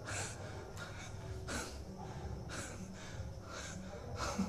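A person breathing hard from exertion, with short sharp breaths about once a second.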